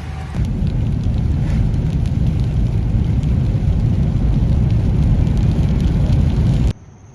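Vehicle road noise: a loud, steady low rumble that comes up about half a second in and cuts off abruptly near the end.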